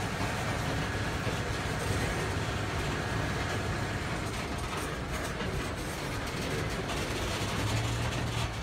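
Norfolk Southern coal hopper cars rolling slowly past, a steady rumble of steel wheels on rail. The uploader takes the hoppers to be running empty.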